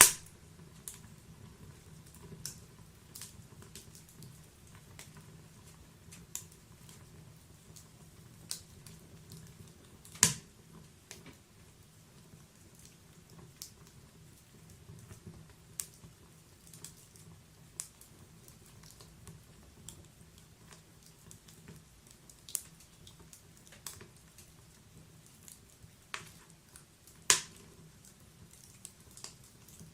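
Wood fire crackling in a fireplace: scattered irregular snaps and pops over a faint low rush of the flames, with a few much louder pops, one at the start, one about a third of the way in and one near the end.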